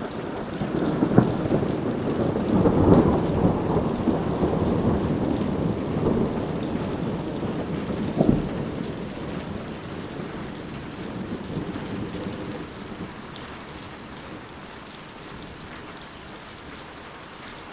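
Steady rain with a long roll of thunder. The thunder builds about a second in with a sharp crack, rumbles loudest a few seconds later, cracks again about halfway through and dies away, leaving only the steady hiss of rain.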